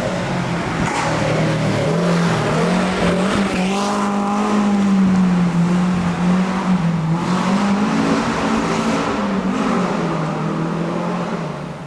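Rally car engine running hard at high revs, its note rising and falling several times as the driver accelerates, lifts and changes gear through a stage.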